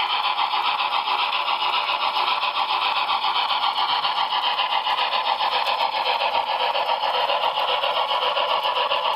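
HO-scale model locomotive running with a steady engine-like sound and a fast, even pulsing.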